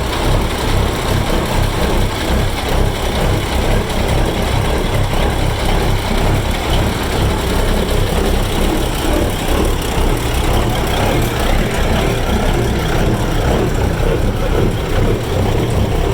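Cummins KTA-19 1150-cubic-inch straight-six diesel engines idling steadily together, a deep rumble with the uneven lope these engines are known for at idle.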